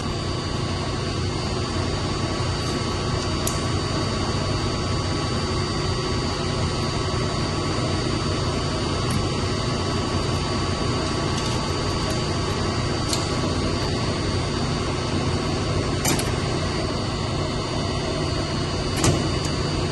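Steady low machinery drone of a chiller plant room's running equipment, with a few light clicks and taps scattered through.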